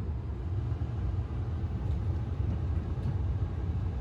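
Steady low rumble of a car heard from inside the cabin, the engine running with the car stopped or moving slowly.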